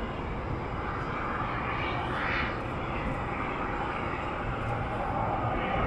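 Jet airliner engines running as a steady rush of noise, swelling briefly about two seconds in.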